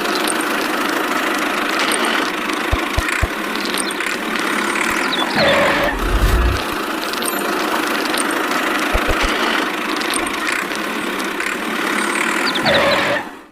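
An engine or motor running steadily, with a few quick falling swoops over it and some short low thumps; it cuts off suddenly near the end.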